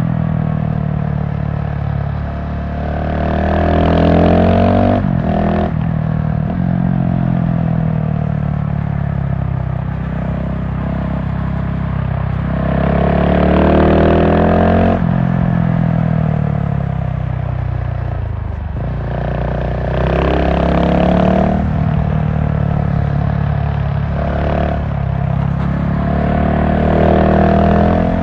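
GasGas SM700 supermoto's single-cylinder engine under way, accelerating hard several times. Its pitch climbs through each gear with brief breaks at the shifts, then falls away as the throttle is shut, with a sudden drop about halfway through.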